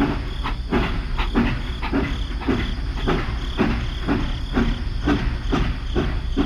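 Small motor-driven model machine running, with a steady low hum and a rhythmic clatter about three times a second.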